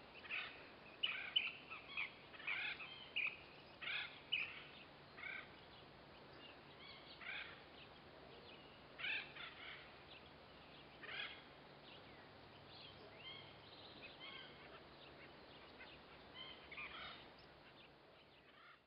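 Wild birds calling: short, sharp calls repeated quickly over the first few seconds, then coming singly every few seconds.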